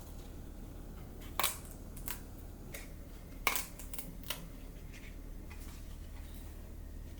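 Several sharp clicks and light knocks of objects being handled, the two loudest about a second and a half and three and a half seconds in, over a faint steady low hum.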